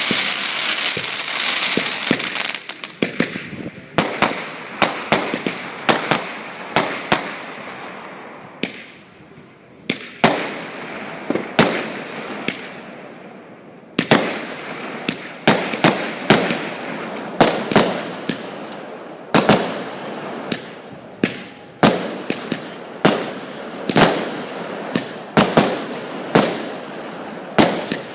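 Fireworks: a dense crackling hiss for the first couple of seconds, then a long irregular run of sharp bangs, often one or two a second, each trailing off. The bangs thin out briefly around the middle, then come thick and fast again.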